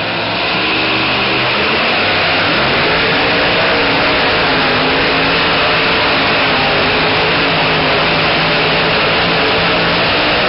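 Super modified two-wheel-drive pulling truck's engine at full throttle, dragging the sled down the track. It swells to full power about half a second in and holds there loud, its pitch wavering as the wheels fight for grip.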